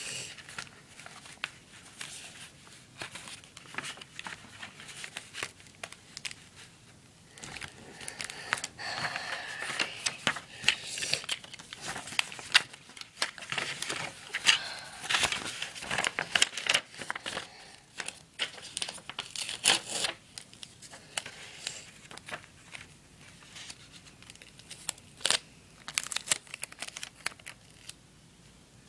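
Adhesive tape being pulled off and torn, with paper rustling and crinkling in irregular bursts and small clicks, as paper pieces are taped together.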